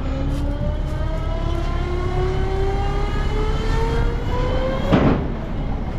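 A vehicle engine running under load, with a whine that rises steadily in pitch for about four seconds, as when accelerating, followed by a short loud rush about five seconds in.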